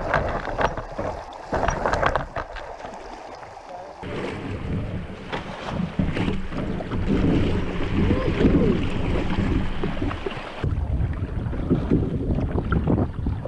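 Wind buffeting an action camera's microphone on a kayak on the water, a dense rumbling noise with irregular knocks and splashes near the start. The sound changes abruptly about four and ten and a half seconds in.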